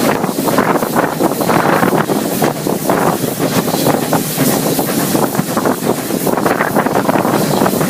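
Wind buffeting the microphone in loud, ragged gusts, over the running noise of a moving heritage train.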